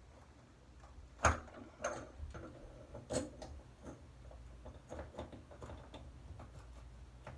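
Irregular sharp metal clicks and knocks from a hand tool being worked on a shower valve stem, the loudest about a second in and another about three seconds in.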